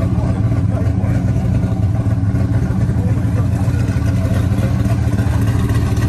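Truck's V8 engine idling steadily with a low, even hum.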